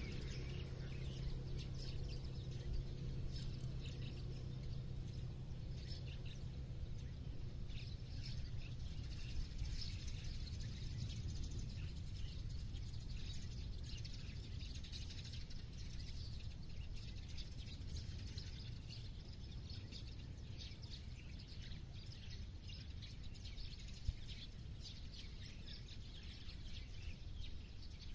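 Many small songbirds chirping and twittering, short high calls overlapping all the way through, over a steady low rumble of outdoor background noise. A single sharp click sounds late on.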